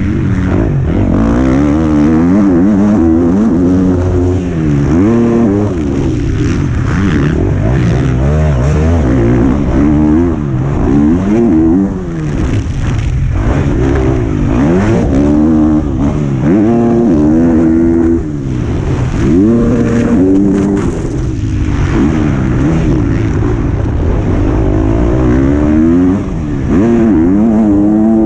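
A 125cc two-stroke motocross bike's engine, heard onboard, revving up and dropping back again and again as the rider works through the gears. The throttle shuts briefly a few times.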